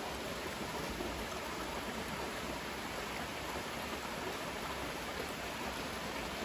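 Flowing water rushing steadily, an even hiss with no separate events.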